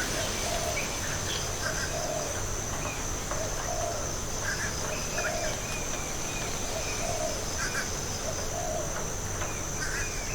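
Tropical forest ambience: a bird repeats a low call about once a second over a steady high-pitched insect drone, with scattered chirps from other birds.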